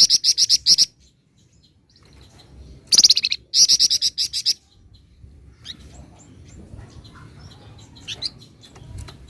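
Flamboyan songbird singing in loud, rapid rattling trills ("ngebren"): one burst at the start, two more about three to four and a half seconds in, then softer scattered chirps.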